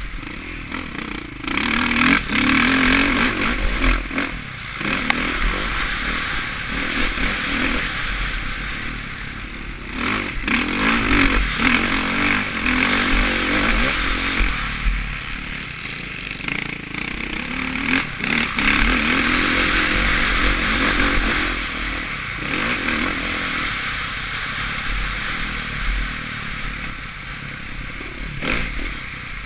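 Suzuki RM-Z450's four-stroke single-cylinder engine revving up and backing off over and over as the bike is ridden, the loudness swelling and dropping every few seconds, with wind rushing over the helmet-mounted microphone.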